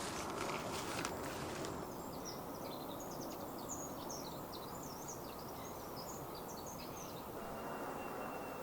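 Small birds chirping in a quick run of short high calls for a few seconds, over a steady outdoor background hiss.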